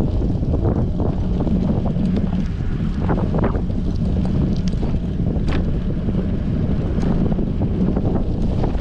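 Wind buffeting an action camera's microphone on a moving bicycle: a steady low rumble, with a few faint clicks.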